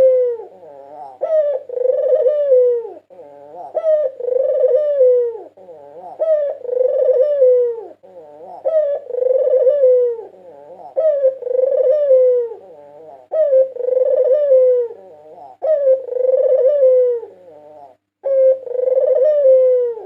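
White puter (Barbary dove) cooing over and over, a falling coo about every two seconds.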